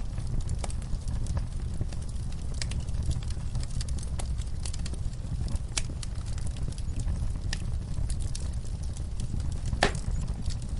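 Fire burning in a fireplace: a steady low rumble of flames with scattered crackles and snaps, and one louder pop near the end.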